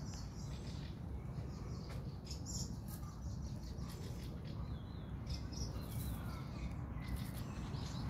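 Faint short bird chirps scattered through a steady low outdoor rumble.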